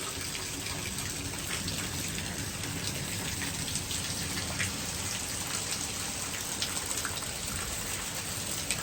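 Steady rain falling from a thunderstorm that has eased to plain rain after its high winds, with scattered sharp ticks of individual drops.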